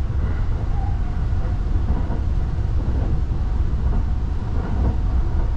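Saphir Odoriko E261-series electric train running along the track: a steady low rumble.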